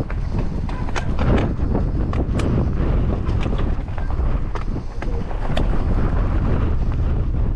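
Strong wind buffeting the microphone as a steady low rumble, with many short sharp clicks and rattles from a mountain bike over rough, rocky ground.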